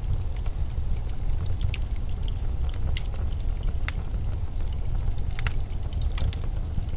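Steady low rumble of a winter storm wind. Scattered sharp ticks sound a few times over it.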